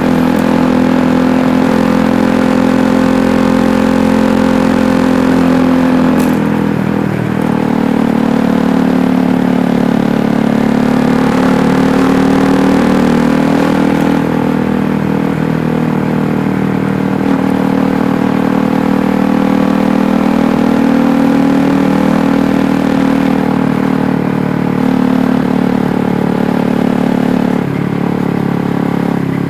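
KTM 390 Duke's single-cylinder engine running while riding, its note mostly steady with slight rises and falls in revs. There is a brief dip in revs about seven seconds in and another near the end.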